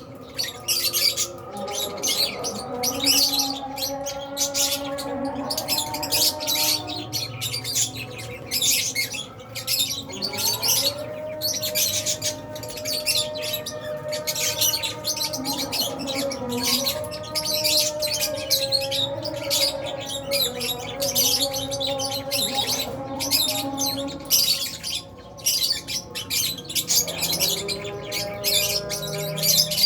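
A flock of Fisher's and albino lovebirds chirping and squawking without pause: a dense stream of high, overlapping chirps, with steady held notes underneath that change pitch every few seconds.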